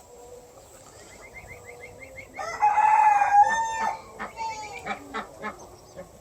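A rooster crowing once, a call about a second and a half long, with quick repeated chirps of small birds before and after it.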